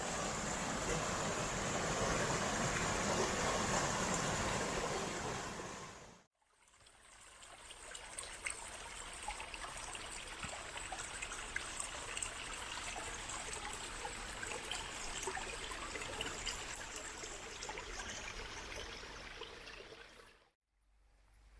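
Water trickling and running steadily, in two stretches separated by a brief fade to silence about six seconds in, with small drips ticking through the second stretch.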